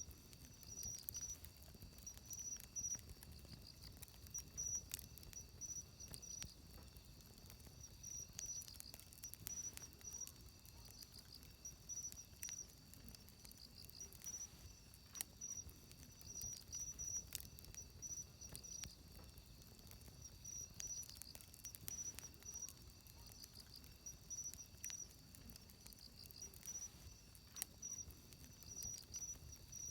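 Wood fire crackling, with sharp pops scattered irregularly throughout, over a steady high chirping of insects that pulses in short trains.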